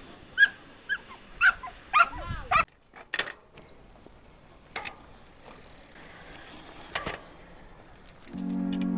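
A dog barking, about five short yaps in quick succession, then falling quiet; a few sharp clicks follow.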